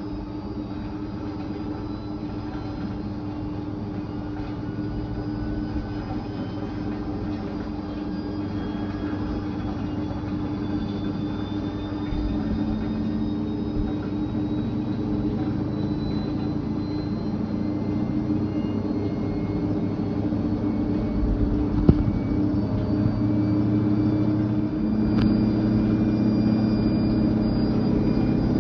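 Fisher & Paykel IW812 top-loading washing machine running up in a spin: a steady motor hum with faint whines that rise slowly in pitch, growing gradually louder. A single sharp knock comes about three-quarters of the way through.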